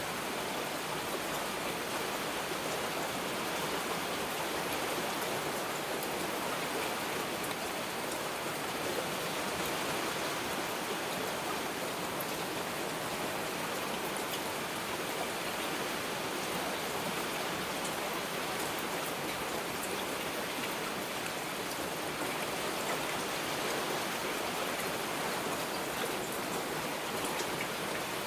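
Heavy rain falling steadily: an even hiss with scattered drop ticks and no thunder.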